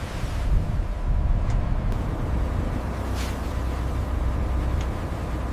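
A deep, steady rumble, with a faint steady hum above it and three brief faint swishes.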